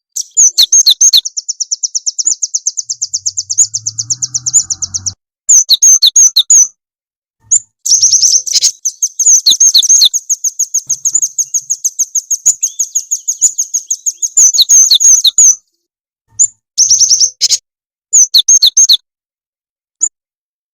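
Small songbird giving loud, rapid trills of high chirps in several long runs with short breaks, played as a bird-lure recording.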